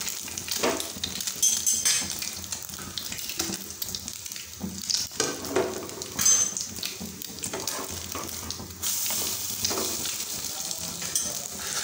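A slice of egg-dipped bread sizzling in hot oil in a nonstick frying pan, a steady hiss with scattered pops and crackles.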